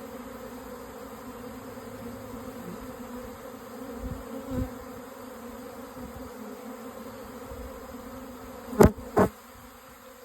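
Steady loud hum of a honey bee swarm in flight, thousands of bees buzzing around the box they are moving into. Two sharp thumps, close together, near the end.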